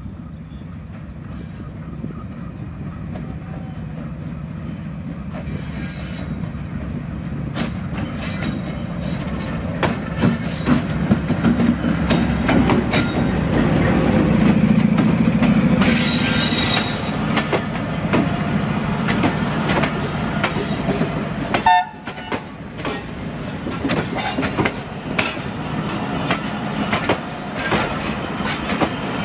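Pakistan Railways AGE-30 diesel-electric locomotive approaching and passing close by, its engine hum growing louder to a peak about halfway through. Then the passenger coaches roll past with a rhythmic clickety-clack of wheels over the rail joints.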